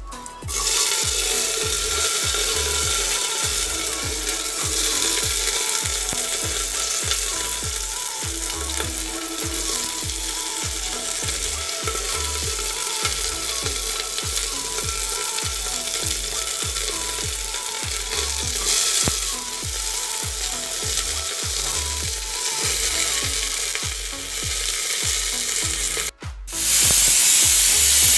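Cut vegetables, okra among them, sizzling steadily as they fry in hot tempered oil in a pressure cooker. About 26 seconds in the sound breaks off briefly, then hot oil sizzles more loudly in a steel wok.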